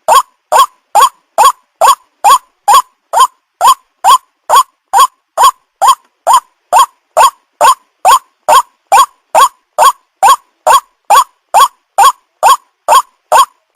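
White-breasted waterhen (ruak-ruak) calling: one short, loud note repeated at a very even pace, about two and a half calls a second, with clean gaps between them.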